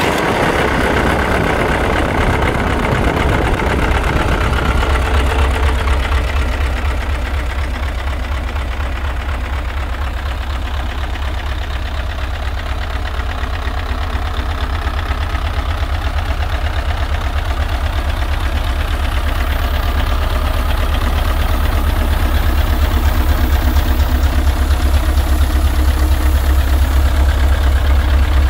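Hino EF750 V8 diesel engine just after starting, its revs dropping over the first couple of seconds, then idling steadily with an even, rhythmic diesel clatter.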